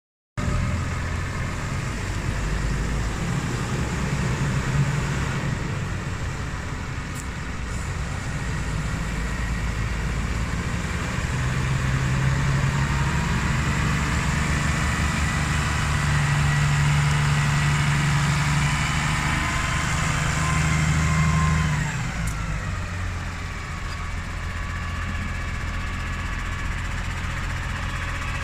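New Holland T7.220 tractor's six-cylinder diesel engine running, with a whine above the engine note. About three-quarters of the way through, the engine speed and whine fall away and it settles back to a steady idle.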